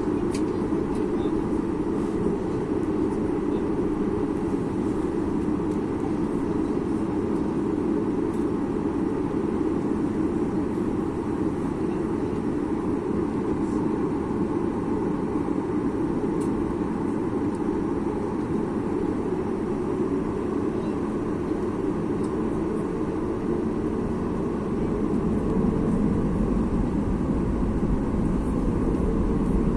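Steady rumbling cabin noise of a Boeing 737 MAX 8 airliner with its engines running, heard from inside the passenger cabin, growing slightly louder near the end.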